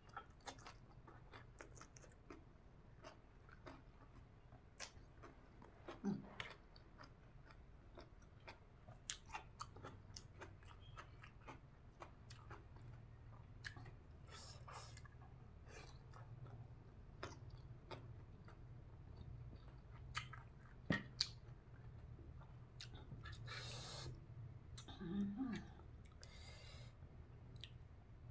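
A person chewing and crunching raw vegetables and green papaya salad close to the microphone, with irregular wet mouth clicks and smacks and a short hissing burst about 24 s in.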